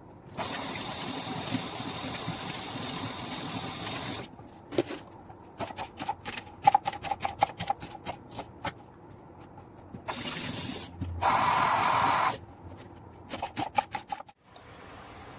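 A steady hiss like spraying or running water for about four seconds, cut off abruptly, then a run of quick clicks and rattles. Two more short bursts of hiss follow, then a few more clicks.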